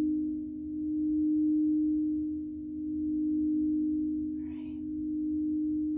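Singing bowl sustaining one steady, low ringing tone that swells and fades about every two seconds. A brief faint noise sounds about four seconds in.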